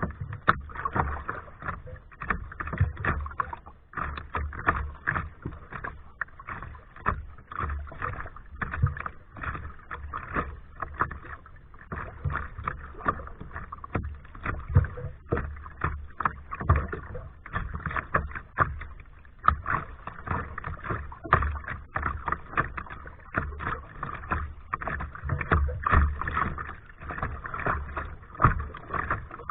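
Kayak paddle strokes, the blades dipping and splashing in the water over and over at an uneven pace.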